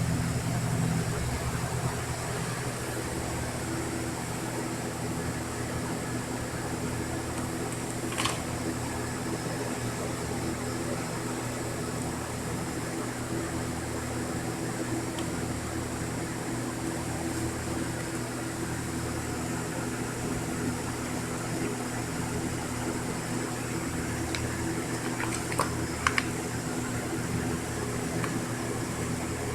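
Steady mechanical hum with a few light clicks, one about eight seconds in and a couple near the end.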